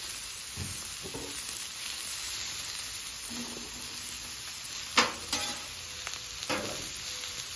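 Sliced mushrooms, squash and zucchini sizzling in oil on a hot flat-top griddle, a steady frying hiss. A single sharp clack comes about five seconds in.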